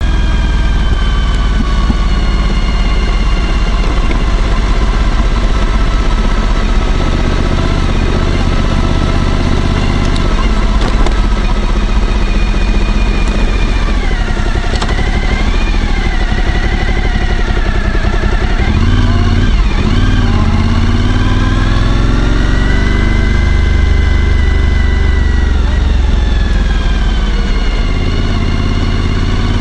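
Suzuki V-Strom 1000's V-twin engine running under way, its pitch holding steady for long stretches, then dipping and rising several times as the speed changes.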